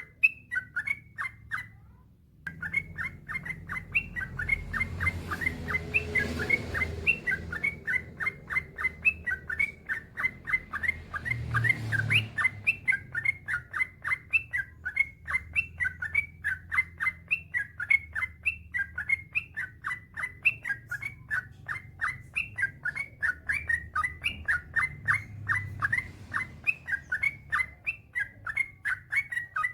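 Yellow-vented bulbul (trucukan) singing a long, rapid run of short chirping notes, several a second, with a brief pause near the start.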